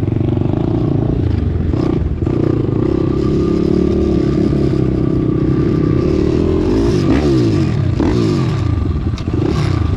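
Pit bike engines running hard during a race, revving up and down through the gears, with several bikes' pitches rising and falling together about seven seconds in.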